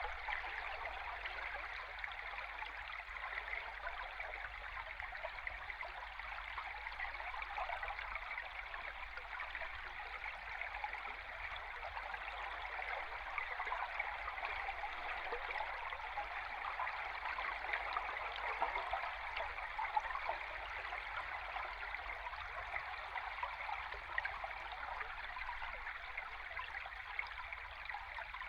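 A river stream heard underwater: a steady rush of flowing water full of fine bubbling and crackling, over a low steady rumble.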